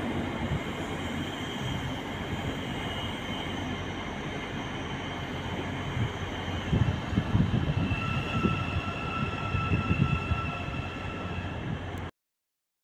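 Passenger train pulling out of the station and moving away, with steady running noise and thin high-pitched wheel squeal from the rails that is strongest about two thirds of the way through. The sound cuts off suddenly near the end.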